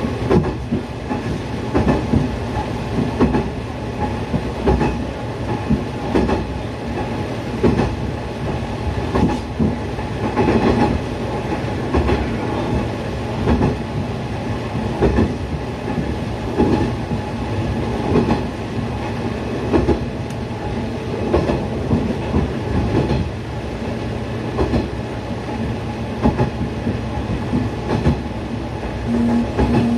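Diesel railcar running along the track, heard from the driver's cab: a steady engine and track rumble, with the wheels clicking over rail joints about once a second.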